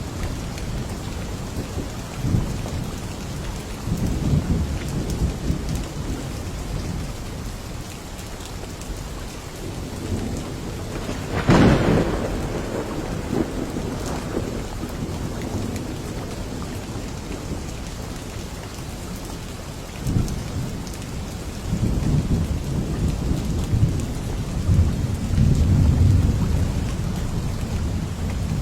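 A thunderstorm: rain falls steadily while thunder rumbles low. A sharp thunderclap about twelve seconds in is the loudest sound, and longer rolling rumbles build near the end.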